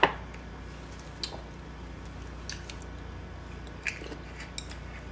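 Quiet eating sounds: raw geoduck sashimi being chewed, with a few light clicks, one sharper at the very start, over a low steady room hum.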